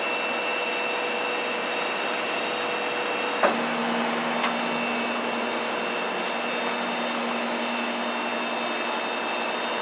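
Steady whooshing air noise of a fan or blower, such as a car's air-conditioning, with a faint steady whine over it; a brief click about three and a half seconds in.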